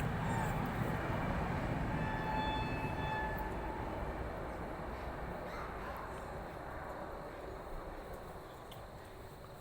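A low rumble of a passing vehicle, fading steadily as it moves away, with a steady horn-like tone about two seconds in that lasts about a second and a half.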